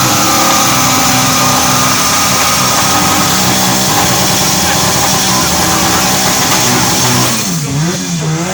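A car engine running hard at high revs, loud and sustained, easing off about seven seconds in.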